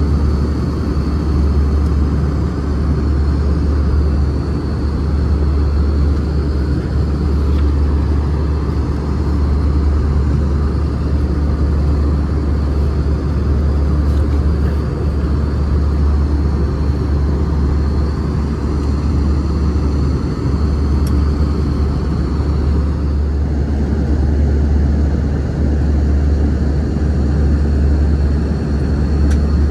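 Airbus A320 cabin noise in flight: a steady low rumble of engines and airflow with a faint, constant high-pitched whine.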